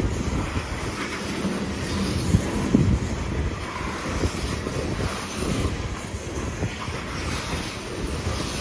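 Loaded-style coal gondola cars of a freight train rolling past: a steady rumble of steel wheels on the rails, with a few louder knocks about two to three seconds in. Wind buffets the microphone throughout.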